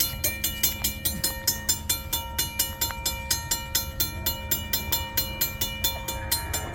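A train on the line, with sharp regular clicks about four times a second over a low rumble and a few steady ringing tones.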